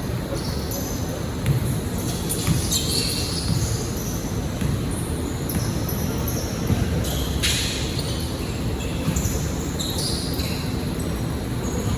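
Basketball game on an indoor court: the ball bouncing and many short high squeaks over a steady low hall rumble, with a few sharp knocks.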